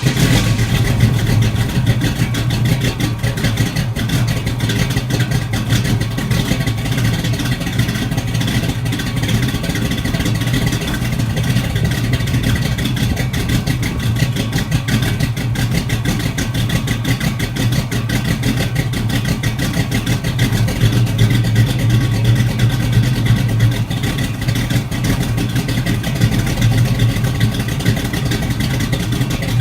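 1968 Pontiac Firebird's 400 V8 idling steadily just after a cold start, its exhaust running through Flowmaster 40 Series Delta Flow mufflers with a deep, even burble.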